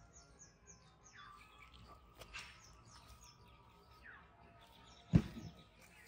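Small birds chirping in quick series of short, high notes, over quiet outdoor ambience. About five seconds in comes a single sharp thump, the loudest sound.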